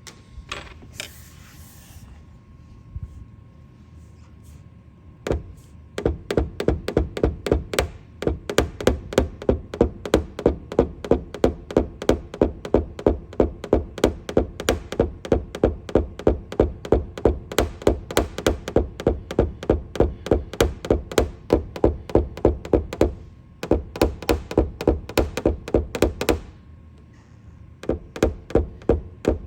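Paintless dent repair tapping on a car's roof panel: a tap-down hammer striking a knockdown tool in quick, even taps, about three a second, as the metal around the glue-pulled hail dent is worked level. The tapping starts a few seconds in and pauses briefly twice.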